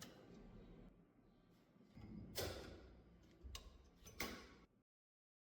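Hand work on the typewriter: a few sharp clicks and knocks over a low rumble, the loudest about two and a half seconds in and again about four seconds in, then an abrupt cut-off.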